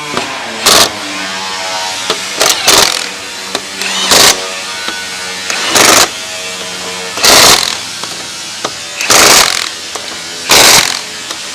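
Air impact wrench running lug nuts onto the wheel studs in short bursts, about one every one and a half seconds, with background music underneath.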